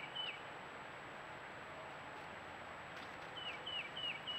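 A songbird sings a run of four clear, quick down-slurred notes about three seconds in, after the last note of a similar run right at the start. Under it is a steady background hiss.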